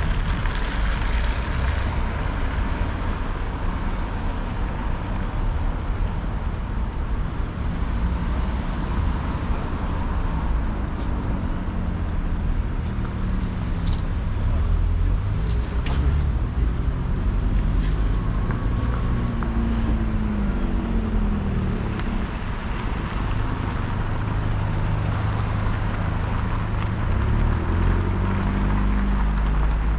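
City street traffic: cars and other vehicles passing, their engine hum rising and falling, over a steady low rumble of wind on the microphone.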